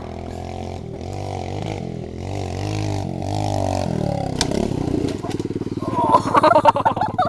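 Kawasaki KLX110's small single-cylinder four-stroke engine revving up and down as the bike is ridden, then settling to a steady pulsing run from about five seconds in. Around six to seven seconds a louder, irregular burst of noise rises over the engine.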